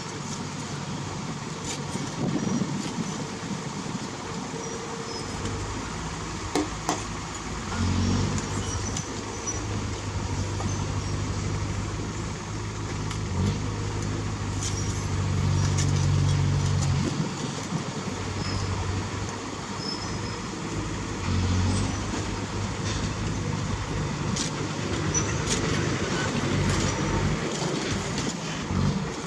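Heavy diesel engine of earthmoving machinery running under load. It swells louder for several seconds in the middle and again briefly later on. Occasional sharp metallic clanks are heard.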